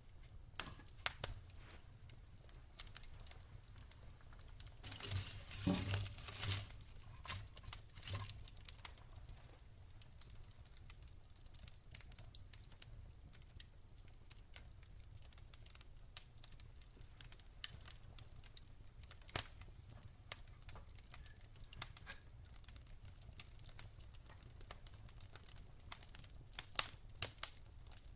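Wood campfire crackling, with irregular sharp pops and snaps. A louder rush of hissing noise comes about five seconds in, and a few louder pops come near the end.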